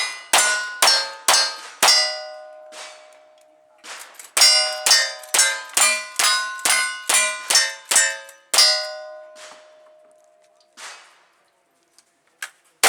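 Gunshots at a cowboy action shooting stage, each followed by the ringing clang of a hit steel target. Five shots come about half a second apart, then after a pause about ten more come in quick succession, with a couple of fainter ones near the end.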